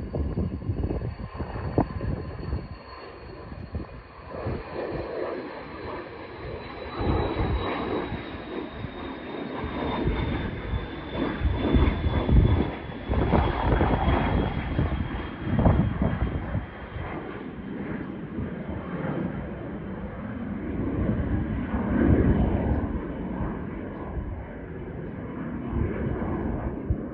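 Airplane engines at takeoff power: a loud rumbling roar that swells and fades, with a high engine whine slowly falling in pitch throughout.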